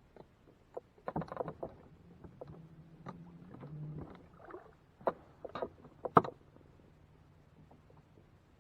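Knocks and rattles of gear against a fishing kayak's hull: a cluster about a second in, then single sharper knocks between five and six seconds in, the loudest near the end of them, over a faint low hum.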